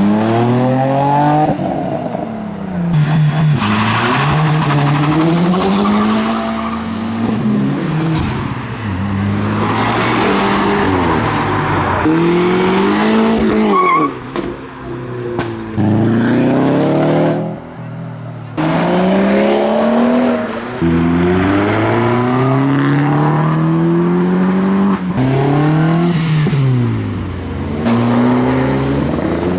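Modified cars' engines revving hard, the pitch climbing and dropping again and again every couple of seconds, with tyres squealing as the cars drift round a roundabout.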